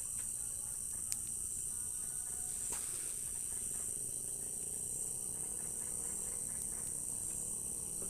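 Crickets trilling steadily in a continuous high-pitched drone, with a single faint click about a second in.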